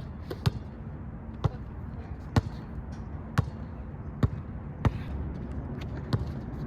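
Sharp knocks or impacts, roughly one a second and a few slightly louder than the rest, over a low steady hum.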